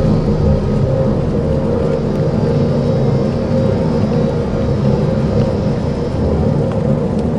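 Dark ambient soundscape music: a steady low drone with a few held tones over an even hiss, with no beat.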